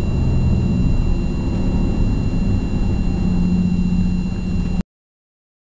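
Nissan 370Z's 3.7-litre V6 running steadily through a Stillen exhaust and Berk high-flow cats, heard from inside the cabin as a low drone. The sound cuts off abruptly a little under five seconds in.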